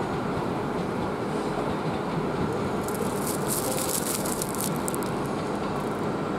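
JR East 701 series electric train pulling away and running over the points, a steady low rumble of wheels on rail. About three seconds in, a high-pitched squeal and rattle from the wheels lasts for about two seconds as it takes the turnout.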